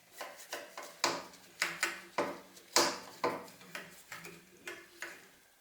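A run of light, irregular metallic clicks and knocks, some ringing briefly, from metal tools and parts being handled and set down during moped repair work. The knocks are loudest around the middle and die away near the end.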